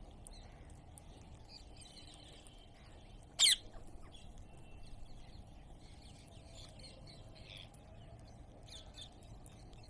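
A parrot gives one short, loud, wavering squawk about three and a half seconds in, with faint chirps and chattering from the birds around it.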